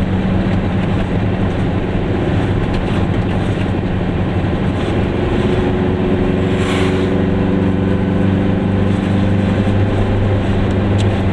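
Goggomobil's small two-stroke twin engine running steadily as the car drives along, heard from inside the cabin with road noise. Higher tones join about five seconds in, and there is a brief rush of noise about seven seconds in.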